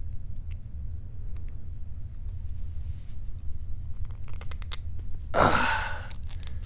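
Small metal clicks and scrapes of tools working inside a disassembled padlock, with a cluster of quick clicks near the end and a louder rasping scrape just before a part comes free.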